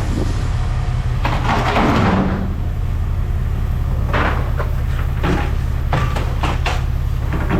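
Scrap metal clanking and knocking as pieces are handled and dropped, several sharp knocks in quick succession in the second half, over a steady low machine hum.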